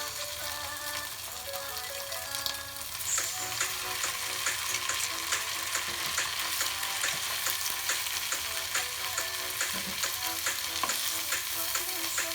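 Food sizzling and crackling in hot oil in a pan, the crackle growing denser about three seconds in.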